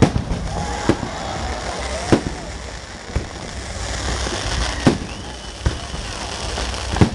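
Fireworks going off: about six sharp bangs at irregular intervals, over the voices of a crowd and a steady low rumble.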